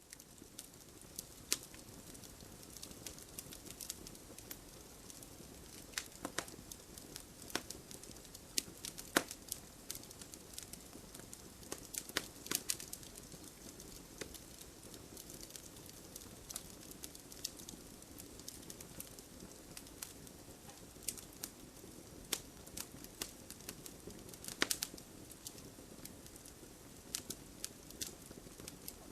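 Wood fire in a fireplace crackling: a soft steady hiss with irregular sharp pops and snaps, a few louder ones scattered through.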